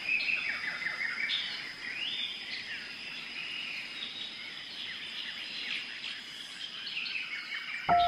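Many birds chirping and twittering in quick short calls, with a steady high-pitched tone beneath them.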